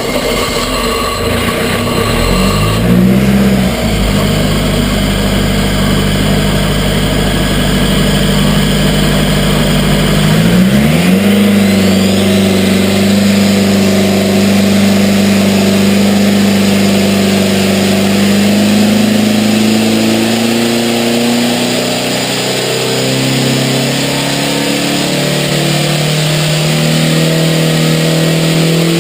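A motor vehicle engine running under load, its pitch rising twice and then holding steady.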